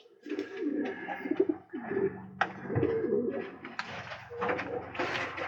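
Domestic pigeons cooing in a loft, several low warbling coos overlapping, with wing flaps and scuffling in between. A faint steady hum comes in about halfway through.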